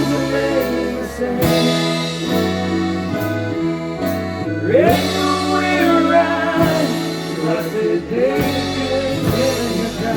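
Live band playing a song: sustained chords on guitars and keys with a singer's voice, the melody sliding and bending through the middle.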